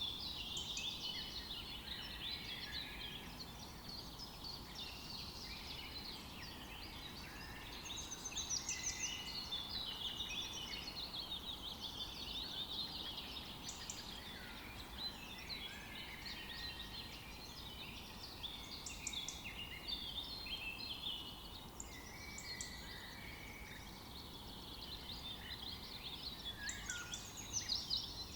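Several wild birds singing and chirping at once in a continuous overlapping chorus of quick high trills and twitters, over a steady low background hiss.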